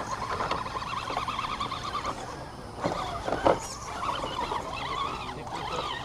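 Electric motor and drivetrain of an RC scale rock-crawler truck whining as it crawls, the pitch wavering up and down with the throttle, with a couple of sharp knocks about three seconds in.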